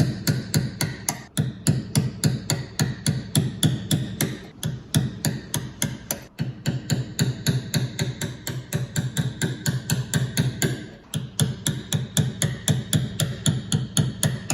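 Rapid, even tapping strikes, about five a second, in long runs broken by a few brief pauses.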